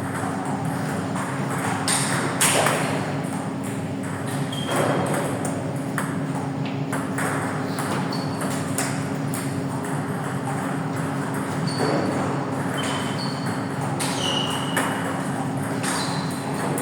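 Table tennis balls clicking off bats and tables at irregular intervals in a large hall, with many short high squeaks over a steady low hum.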